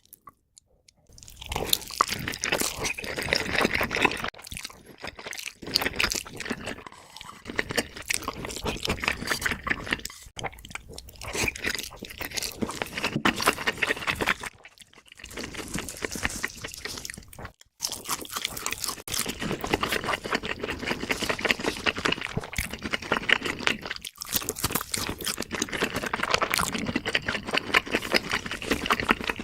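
Close-miked eating sounds: crunchy bites and chewing in dense runs, broken every few seconds by brief pauses.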